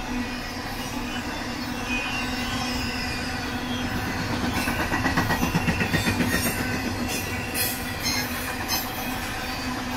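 Intermodal train's trailer-carrying flatcars rolling past, steel wheels running on the rails with a steady hum. A rapid run of clacks, about six a second, swells between four and six seconds in, and two sharper knocks follow near the end.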